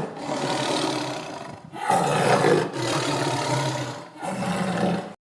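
A large animal roaring: about four long, rough calls in a row, each a second or so long. The calls cut off suddenly near the end.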